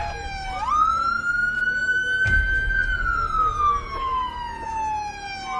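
Police car siren wailing, its pitch sliding slowly down, sweeping back up about half a second in, then rising and falling slowly again. A low thud comes about two seconds in.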